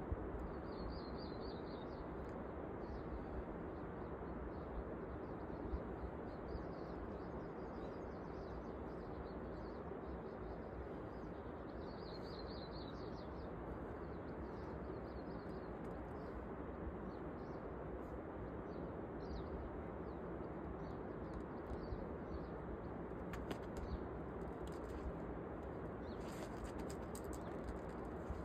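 Small birds chirping in short high trills, about a second in, around twelve seconds in and again near the end, over a steady rushing background noise. A few faint clicks come late on.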